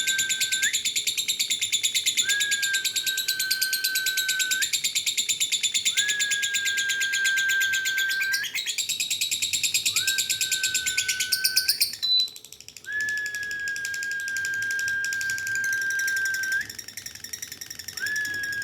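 Lovebird singing a long, fast, rattling chatter (ngekek), with a short break about two-thirds in, after which it goes on more faintly. A steady high tone sounds alongside it in repeated stretches of about two seconds.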